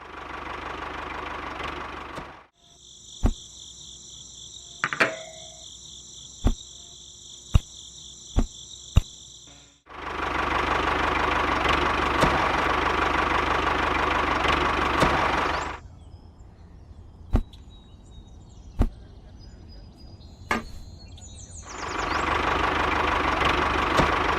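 Three stretches of steady mechanical running noise, each starting and stopping abruptly, separated by quieter gaps holding a high insect-like trill and a scattering of sharp clicks.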